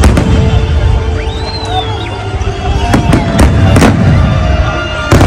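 Large fireworks display: a steady low rumble of bursts, with sharp cracks about three seconds in and a quick run of cracks near the end.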